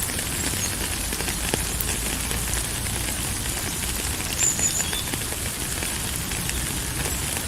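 Steady rain falling, an even hiss dotted with many small ticks of individual drops.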